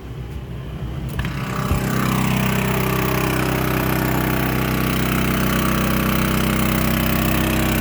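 Champion 3100-watt dual fuel inverter generator's engine running steadily at raised speed under load from an RV air conditioner and microwave. There is a click about a second in, after which the engine gets louder and holds steady.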